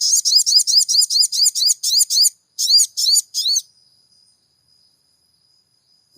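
Sogon bird giving a fast run of high, arched chirps, about five a second, with a short break a little past two seconds in, then three more chirps stopping about three and a half seconds in. A faint thin high steady tone lingers after the chirps stop.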